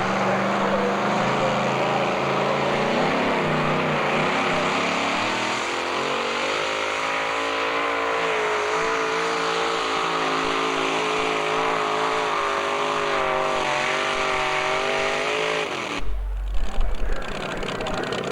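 Tractor-pulling vehicle's engine running hard, its pitch rising about five seconds in and then holding high and steady. About sixteen seconds in the engine sound cuts off abruptly, followed by a few loud low thumps.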